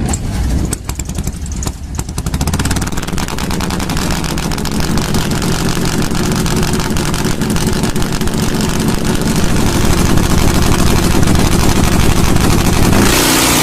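Drag-racing motorcycle engine running loud, popping unevenly for the first couple of seconds, then pulling a steady note that grows louder.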